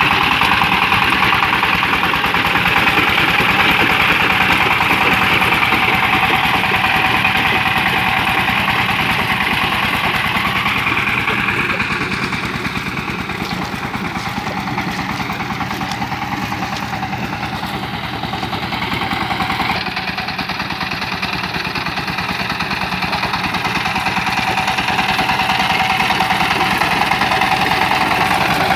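Power tiller engine running steadily with a fast, even chug. It grows somewhat quieter for several seconds midway, then comes back up.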